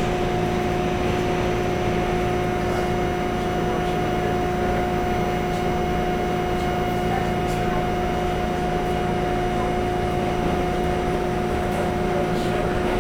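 Steady hum inside an R68 subway car: the air-conditioning and onboard equipment running, with a constant two-note pitched drone over an even noise.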